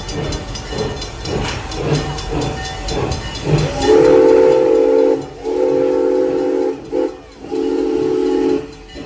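Crossing's mechanical bells ringing rapidly. Then the approaching train's locomotive whistle sounds the grade-crossing signal: two long blasts, a short one and a final long one.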